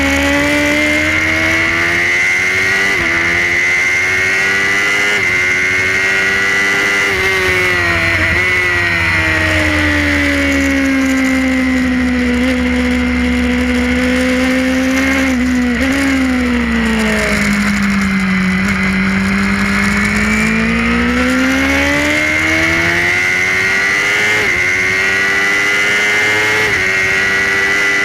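Suzuki GSX-R inline-four race motorcycle engine at full race pace, heard from on board with rushing wind. The engine note climbs with small steps at each gear change, sinks low twice and then climbs again through the gears.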